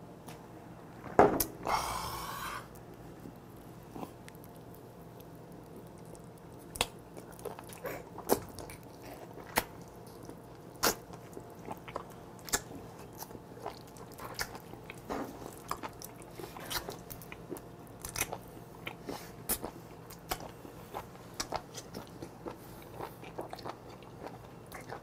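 Close-up chewing of raw live octopus: wet mouth clicks and smacks at irregular intervals, after a short loud noisy burst about two seconds in.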